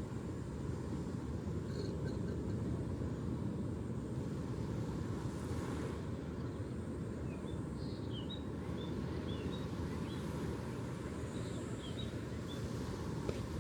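Steady low rumble of ocean surf, with wind on the microphone. A few faint, short bird chirps come through, once about two seconds in and in a scattered run through the middle and second half.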